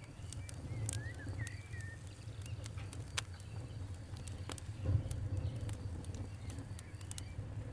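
Wood fire crackling, with irregular sharp pops over a steady low rumble; the loudest pop comes right at the start.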